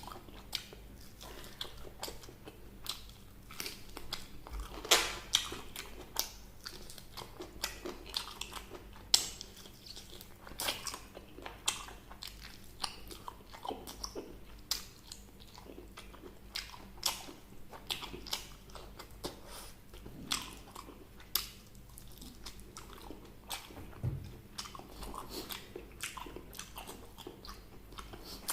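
Close-miked biting and chewing of crispy fried chicken: a steady run of irregular crunches and sharp crackles, a few of them louder bites.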